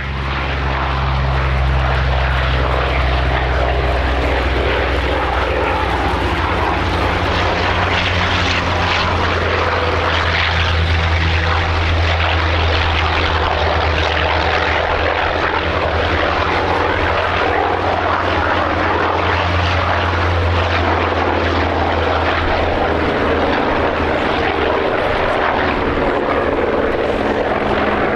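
Vought/Goodyear Corsair warbirds' Pratt & Whitney R-2800 radial piston engines running in flight, a steady low propeller drone.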